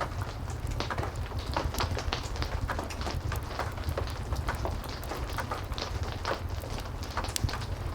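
Steady heavy rain with a low rumble, mixed with frequent irregular crackles and pops of a wood fire burning in a fireplace.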